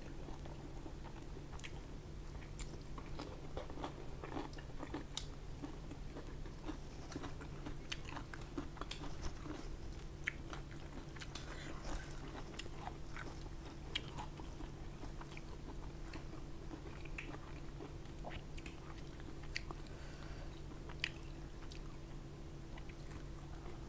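A person chewing and biting food close to the microphone, with many small scattered clicks, smacks and crunches while eating rice, pork and fresh greens by hand. A steady low hum runs underneath.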